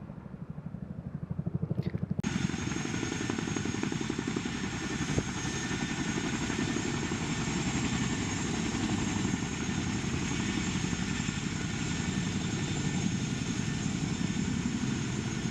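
Helicopter rotors beating rapidly. About two seconds in, a loud steady rush of rotor and turbine noise with a high whine cuts in and holds.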